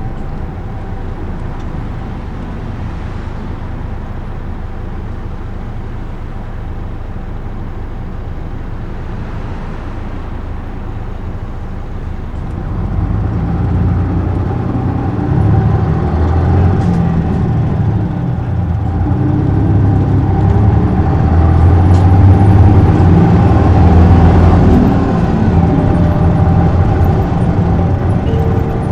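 Running sound inside an Isuzu Erga (PJ-LV234L1) diesel city bus: a steady hum with a constant faint whine, then from about twelve seconds in the engine grows louder and heavier under load.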